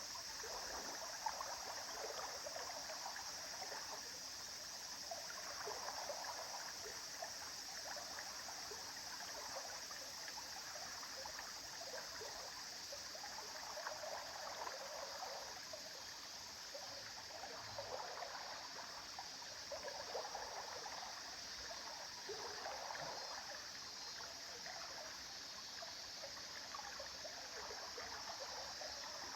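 A small stream flowing over stones, with steady rushing and bubbling, gurgling water.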